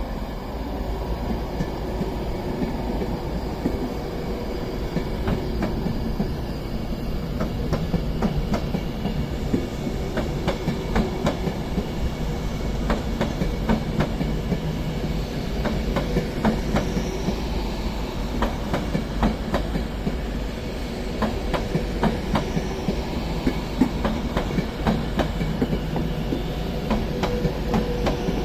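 Class 390 Pendolino electric train pulling out, with a steady rumble and irregular wheel clicks over rail joints and points that become more frequent after the first several seconds.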